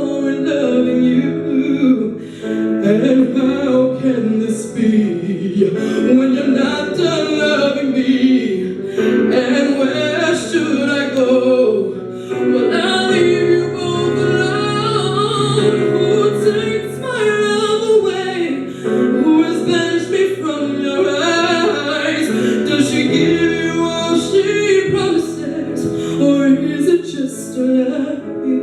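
A woman singing a slow song over instrumental backing, her voice sliding through long, winding runs.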